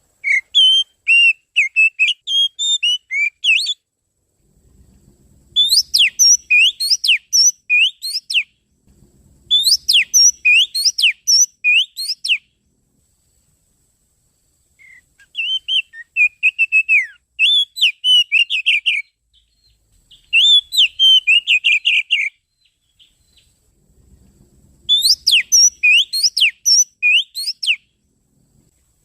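Oriental magpie-robin (kacer) song: six phrases of rapid, varied whistled and chirping notes, each a few seconds long, with short pauses between them.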